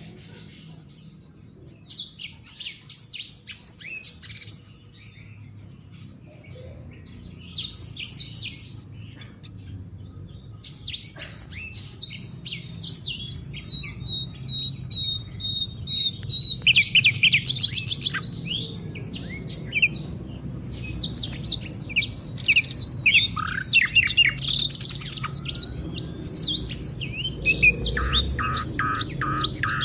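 Songbirds singing in rapid bursts of high chirps and trills, with one steady high whistle held for about two seconds midway. This is a recording of African bird song of the kind played as a lure to set other birds singing.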